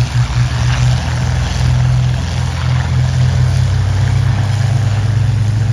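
A formation of Spitfire and Hurricane fighters flying over, the deep steady drone of their many piston engines blending into one sound.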